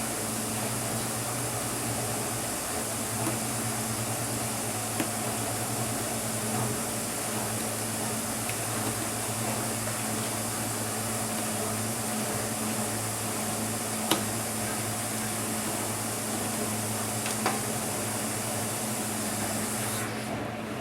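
Steady hum and hiss with a few small, sharp clicks of laptop parts and tools being handled during disassembly, the loudest about fourteen seconds in.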